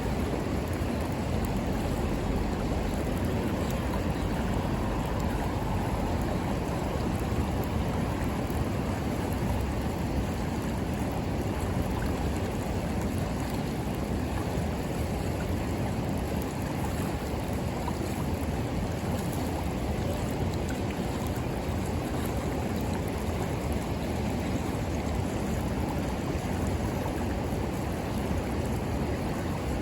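Steady rushing of river water, with faint sharp crackles of a wood bonfire over it.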